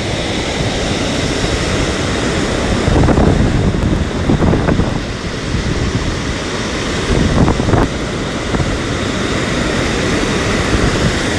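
Storm surf on the Black Sea breaking on a pebble beach under strong wind, with wind buffeting the microphone; the noise swells louder a few times as waves crash or gusts hit.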